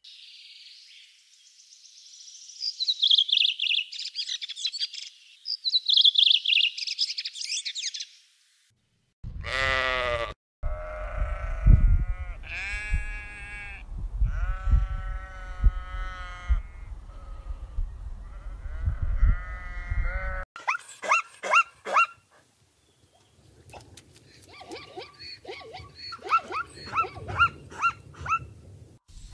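A run of different animal calls. High-pitched chirping comes first, then a series of long pitched calls over a low rumble, then quick repeated chirps and clicks near the end.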